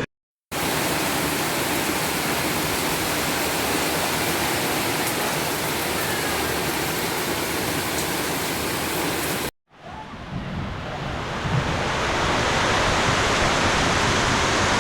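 Heavy rain pouring down in a steady, loud hiss. It drops out to silence briefly at the start and again about ten seconds in, then swells back up and holds steady.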